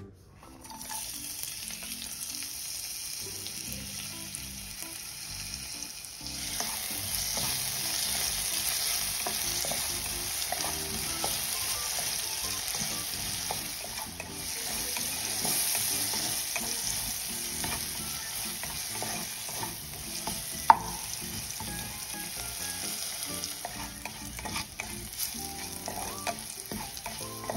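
Sliced onion, crushed garlic and curry leaves sizzling in hot coconut oil in a nonstick pot while a spatula stirs and scrapes them. The sizzle starts about a second in as they hit the oil and grows louder a few seconds later, with small clicks of the spatula throughout and one sharp knock about two-thirds through.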